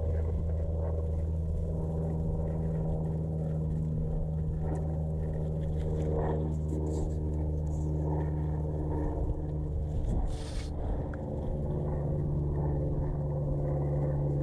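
Electric trolling motor of a motorized kayak humming steadily, with a short hiss about ten seconds in.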